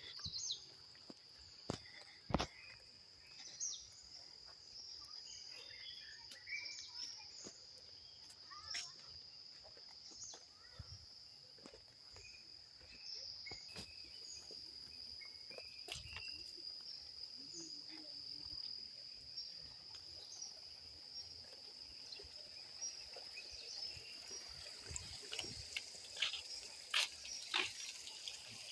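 Steady high-pitched chorus of crickets, with scattered short chirps and a few sharp clicks and knocks over it.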